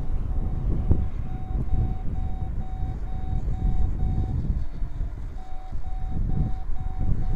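Strong wind buffeting the microphone in a low, rumbling roar. Over it runs a faint high beeping tone that pulses a few times a second and breaks off for about a second midway.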